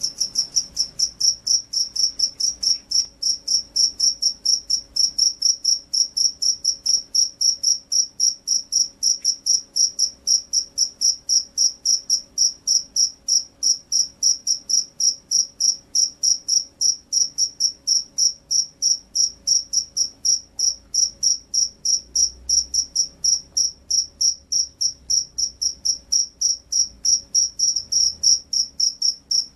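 Field cricket (jangkrik sawah) chirping steadily, a high-pitched chirp repeated evenly about three times a second.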